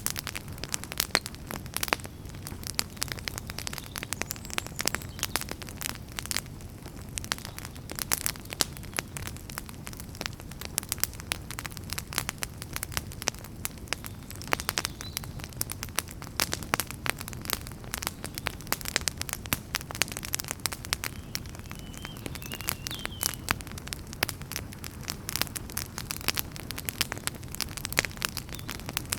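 Wood fire burning in a fireplace, crackling and popping irregularly with many sharp snaps over a low, steady rumble of the flames.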